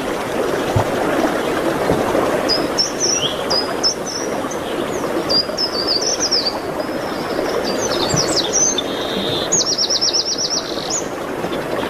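Songbirds singing in quick high chirping phrases, with a fast trill of about nine repeated notes near the end, over a steady rushing background noise.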